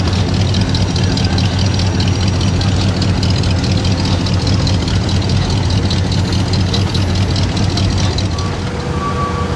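Classic cars idling in a slow queue, a steady low engine rumble. A repeating high beep starts near the end.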